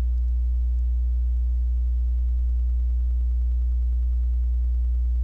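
Steady low electrical hum, a mains-type drone with a stack of even overtones, unchanging throughout and with no brick clicks or other sounds over it.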